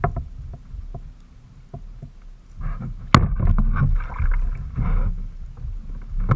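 Handling noise on a fishing kayak: light knocks against the hull, a sharp click about three seconds in, then a few seconds of loud, rough rustling and scraping.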